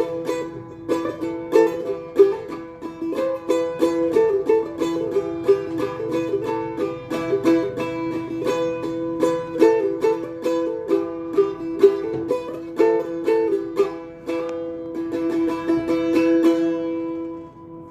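Isan phin, a Thai plucked lute, playing a fast melody of plucked notes over a steady drone, fading out near the end.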